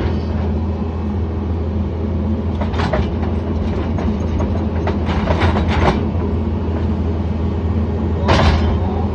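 John Deere 317 skid steer's diesel engine running steadily with a low hum. A few short clattering knocks come through about three seconds in, around five to six seconds, and near the end.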